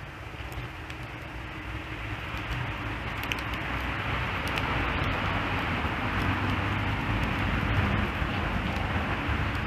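Campfire crackling faintly under a low rumbling noise that swells over several seconds and eases near the end.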